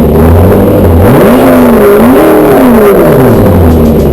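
Car engine revved very loud: it holds a steady note, then about a second in it is blipped up and down twice in quick succession before settling back.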